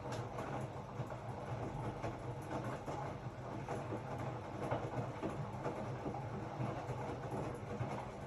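Hotpoint-Ariston RSG 825 J front-loading washing machine running a cycle: a steady motor hum under an irregular swishing and light knocking from the turning drum.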